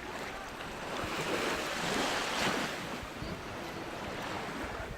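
Sea waves breaking, one surge swelling to a peak about two and a half seconds in and then washing back down, with wind buffeting the microphone.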